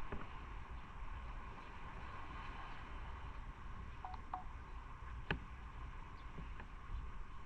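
Motorcycle riding along, its engine a steady low rumble under wind hiss on the microphone. Two short beeps come about four seconds in, and a sharp click a second later.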